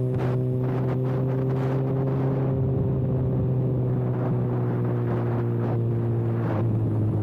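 Kawasaki ZX6R inline-four engine with its muffler canister removed, running at a steady engine speed while riding. The pitch drops slightly near the end.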